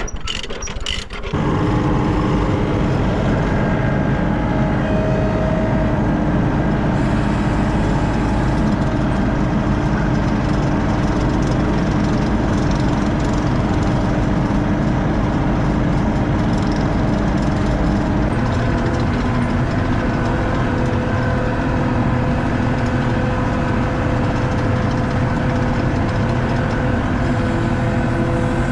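Construction machine's engine running steadily, cutting in abruptly about a second in.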